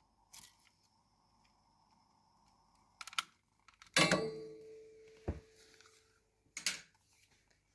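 Clicks and knocks at a wood-burning fireplace as a fire-starter is being lit, with a metal clank about four seconds in that rings on for about two seconds.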